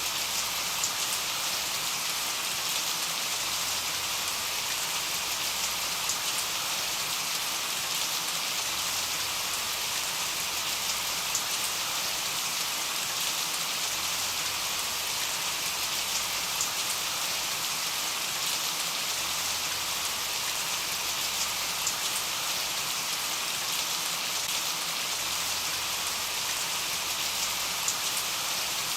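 Steady rain: a dense, even hiss with scattered sharper drop ticks.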